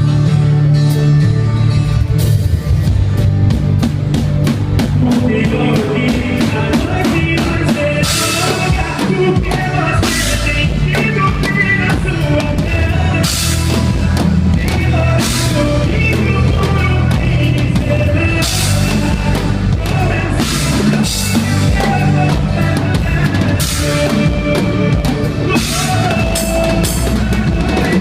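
A band playing with a full drum kit, bass drum and other instruments, a steady beat throughout: a soundcheck run-through of a song.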